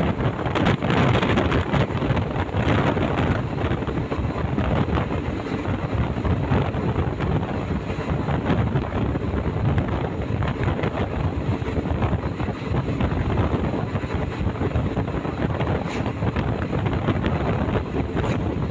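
Wind buffeting the microphone at the open door of a moving passenger train, over the steady running noise of the coaches on the track.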